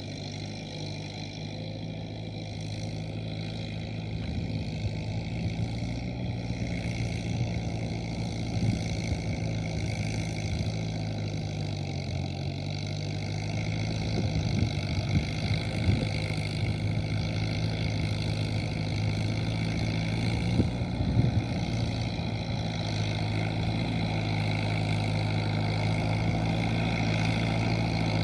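Kubota M7040SU tractor's diesel engine running steadily, growing gradually louder, with scattered short knocks and clanks along the way.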